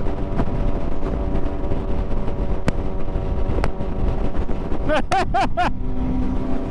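Motorcycle engine running steadily with heavy low rumble and wind on the microphone. About five seconds in comes a quick run of four short chirps.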